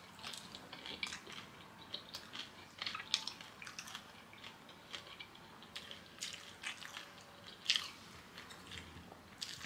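A person chewing and eating food close to the microphone: faint, irregular wet mouth clicks and smacks, one a little louder about three-quarters of the way through.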